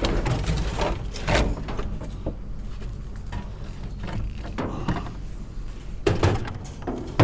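Intermittent knocks and clunks over a steady low rumble.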